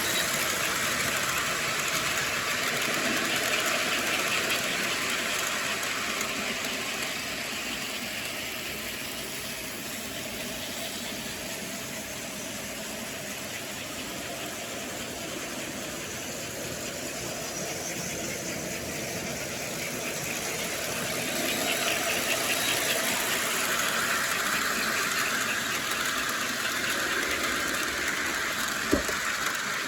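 Model train running on its track: a steady motor whir and wheel rumble that grows louder twice as the train passes close by, with a sharp click near the end.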